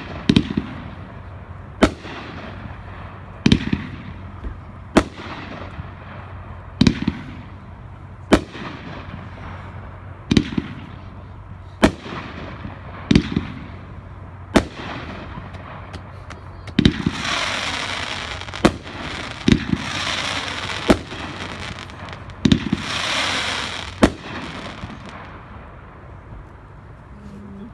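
A 500-gram consumer fireworks cake (Hawaii Dream) firing shot after shot, about one every one and a half seconds, each shot a sharp bang followed by a low boom. Later shots trail into a hissing crackle, and the volley stops about 24 seconds in.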